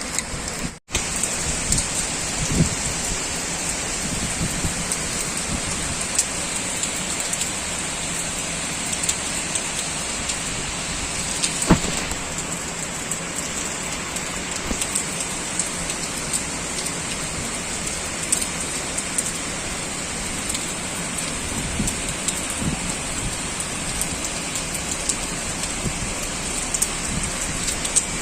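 Heavy typhoon rain falling steadily, an even hiss with scattered drips and taps on surfaces. One sharper tap comes about twelve seconds in, and the sound drops out for an instant just under a second in.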